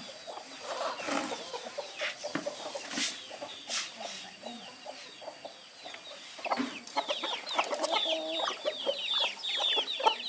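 Chickens clucking, with scattered short calls; about seven seconds in, a dense run of quick, high, falling chirps sets in.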